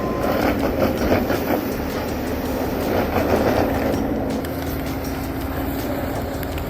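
A heavy forestry machine's engine running with a steady hum. Two louder stretches of rushing, crackling noise come about a second in and again around three seconds in.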